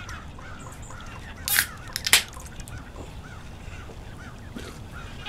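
Several wild birds chirping and calling over a steady low background rumble, with two short sharp noises about one and a half and two seconds in.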